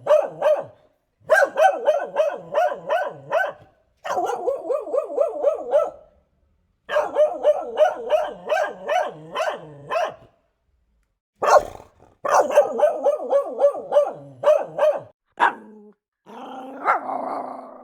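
Dog barking in rapid runs of about four or five barks a second, each run lasting two to three seconds with short silences between. A rougher, noisier sound comes near the end.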